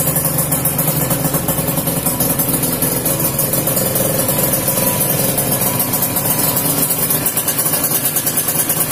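Kawasaki Ninja 150's two-stroke single-cylinder engine idling through an aftermarket racing exhaust, a steady, rapidly pulsing burble.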